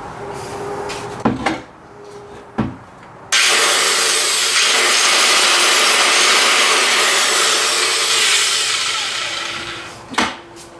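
An old, weathered electric circular saw on a test run: a few knocks as it is handled, then the motor and blade start suddenly, run loud and steady for about six seconds, and wind down. The saw starts and runs well.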